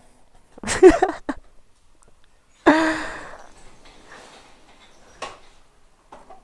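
A man's voice making brief wordless vocal sounds about a second in, then a breathy sound that starts suddenly near three seconds and fades away over about a second and a half.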